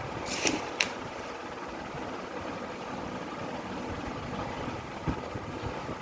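Steady mechanical hum, with two sharp clicks under a second in and a fainter knock about five seconds in.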